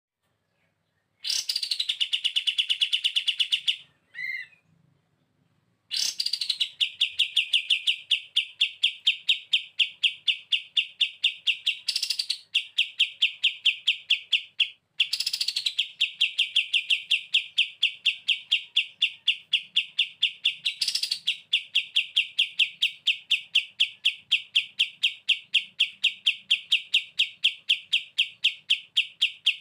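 Kapas tembak bird giving its rapid rattling "bren" song: a machine-gun-like trill of about six high notes a second. It comes in runs lasting several seconds, with brief breaks between them.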